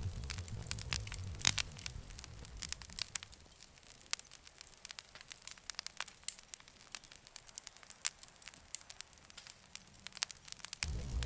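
Wood fire crackling, with sharp pops and snaps throughout. A low rumble under the crackle fades away about two seconds in, leaving only sparse pops, and comes back abruptly just before the end.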